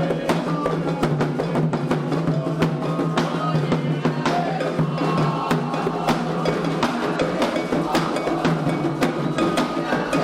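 Candomblé ritual drumming on atabaque hand drums: a dense, fast rhythm of strikes with no break.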